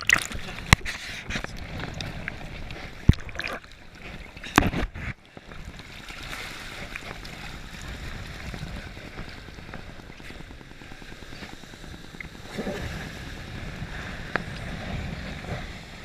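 Jet ski running on open lake water: a steady rush of engine, water and wind, with several sharp slaps in the first five seconds.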